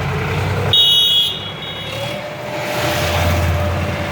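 Sonalika tractor engine running steadily, with a short high-pitched beep about a second in and a faint steady whine entering about halfway.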